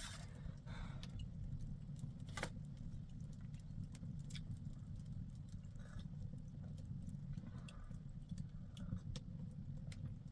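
A few scattered light knocks and clicks, one of the sharpest about two seconds in, over a steady low rumble.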